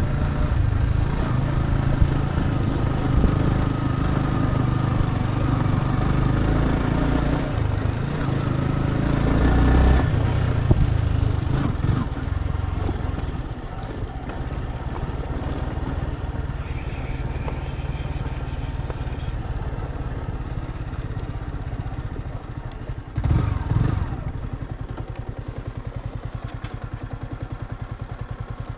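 Motorcycle engine running while being ridden. It is louder for the first dozen seconds, then settles to a quieter, steady run, with a brief knock a little over twenty seconds in.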